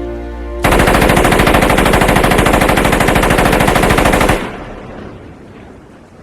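A long continuous burst of Thompson submachine gun fire, rapid even shots for nearly four seconds, starting suddenly under the music and cutting off sharply. It then dies away into falling rain.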